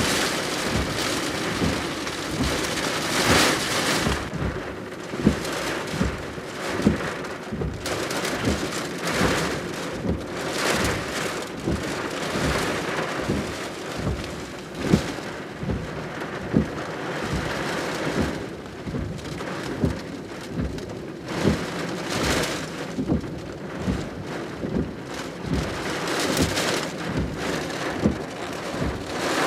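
Typhoon rain and wind: heavy rain pouring in swells that rise and fall every few seconds, with many sharp drops and drips striking a hard surface close by.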